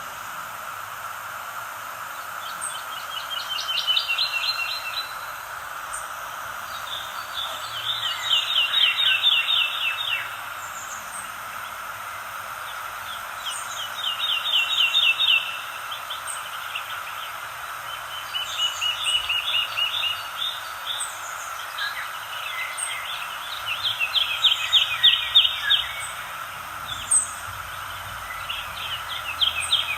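A songbird repeating a rapid trill of about two seconds every few seconds, with faint high chirps from another bird over a steady background hiss.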